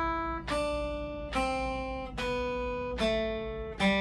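Acoustic guitar playing a major scale downward one note at a time, a new note plucked about every 0.85 seconds. Evenly timed and evenly struck, each note ringing until the next: a demonstration of steady scale practice.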